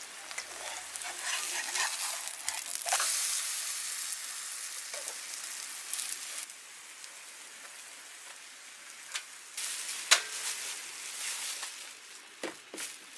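Food sizzling as it fries, a steady hiss that is strongest in the first half and drops back about six and a half seconds in, with a few sharp clicks and clatters near the end.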